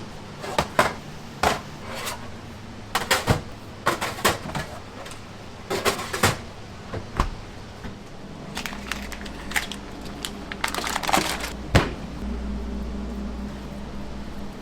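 Kitchen work: irregular knocks and clatters of utensils and cookware being handled, over a low steady hum that grows louder about halfway through.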